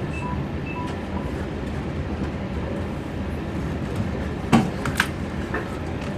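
Steady low rumble inside a passenger train at a station platform, with a few faint short high tones in the first second and two sharp knocks about half a second apart near the end, the first the loudest.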